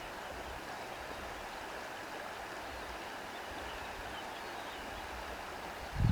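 Steady rushing of wind through grass, with an uneven low rumble underneath and a louder low thump of a gust right at the end.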